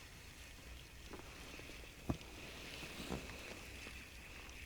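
Quiet sounds from a small fishing boat on a lake: a few faint knocks and one sharp click about two seconds in, over low background hiss.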